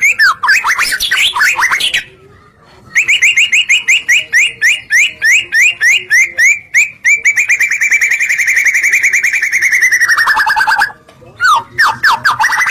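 White-rumped shama (murai batu) singing: quick runs of rising whistled notes, then after a short pause a long fast series that speeds up into a trill and slides down in pitch before breaking off, followed by more quick notes near the end.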